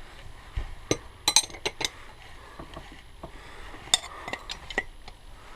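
Irregular metallic clinks and taps of a wrench working a nut loose on the scooter's wheel axle, with a cluster about a second in and a few more near four seconds. The nut was only about hand tight.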